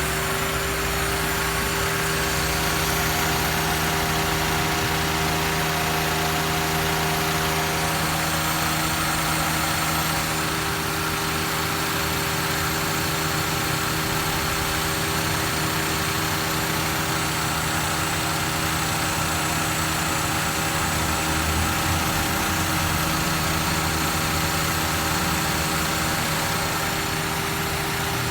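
Toyota Avanza four-cylinder engine idling steadily, being checked by ear after new connecting-rod and main bearings were fitted.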